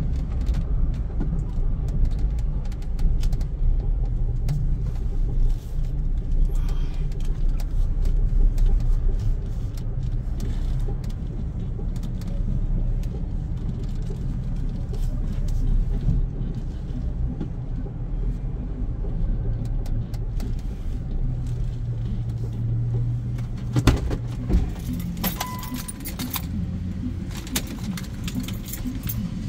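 Low, steady rumble of a car, with scattered rattling clicks that grow sharper and more frequent near the end.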